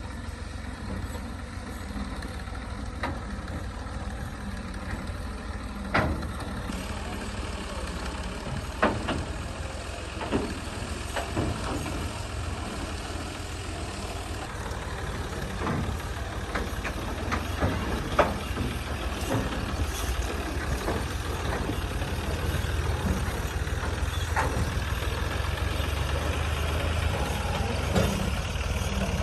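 Tractor's diesel engine running steadily, with scattered short knocks and clatters, growing gradually louder toward the end.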